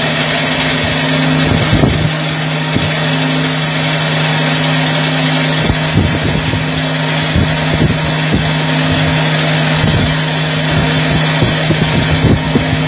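CNC roll-turning lathe running while it turns a high-speed-steel rolling-mill roll: a steady machine hum, with a hiss that rises in the middle and scattered irregular crackles and knocks.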